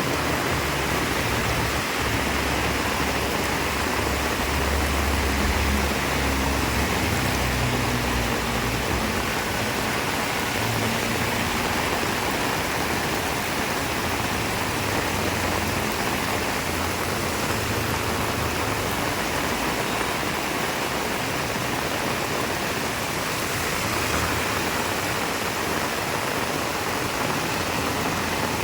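Heavy rain falling steadily as a dense, even hiss, with a low rumble that swells and fades a few times underneath.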